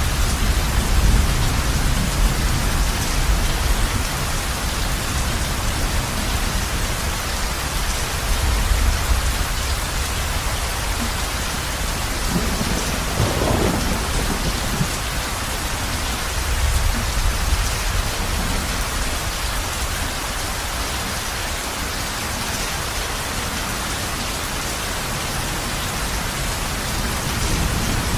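Heavy rain falling on a roof, a steady dense hiss, with low thunder rumbling underneath throughout and a stronger roll of thunder about halfway through.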